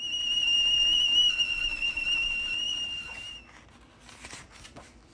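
Tea kettle whistle: one steady high whistle with a slight waver, lasting about three and a half seconds, then faint rustling.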